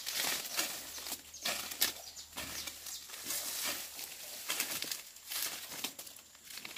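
Hoe scraping through soil and weeds in repeated, irregular strokes, about one or two a second, with rustling of cut vegetation.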